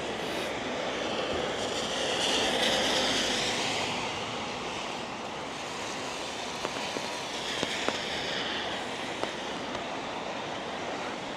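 Steady hiss of monsoon rain, swelling louder twice, with a few sharp taps in the second half.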